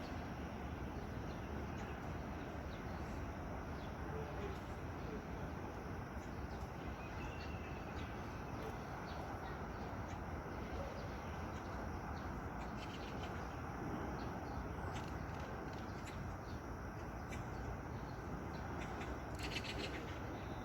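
Steady outdoor background noise with a few faint, short bird chirps scattered through it, including a brief cluster of chirps near the end.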